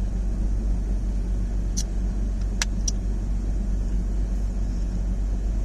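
Steady low rumble of a car's engine and road noise heard from inside the cabin while driving, with a few faint clicks about two to three seconds in.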